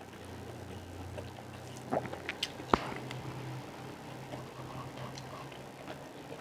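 Close-miked eating sounds: chewing, with small clicks throughout and a few sharp clicks about two to three seconds in, the loudest just before three seconds, over a steady low hum.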